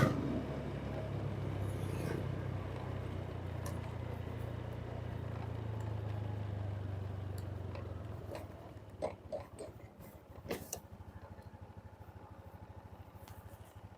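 A vehicle engine runs steadily, then drops to a quieter, evenly pulsing idle about eight seconds in. A few short clicks and knocks come shortly after.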